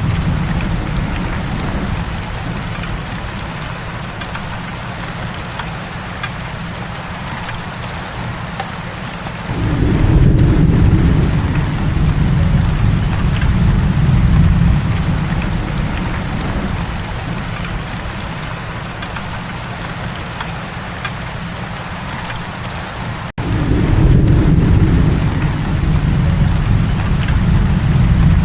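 Heavy rain falling with a steady hiss, under a deep rumble of rolling thunder that swells about a third of the way in and again near the end. A brief cut-out just before the second swell.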